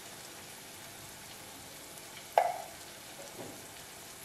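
Diced vegetables sizzling faintly in oil in a kadhai, with one sharp metallic clink about two and a half seconds in.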